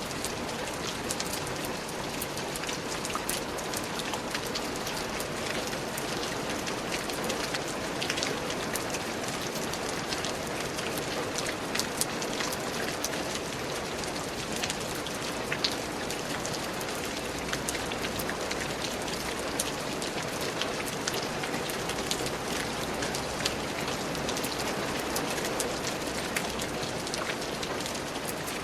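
Steady rain falling, with many separate drops pattering close by over a constant hiss.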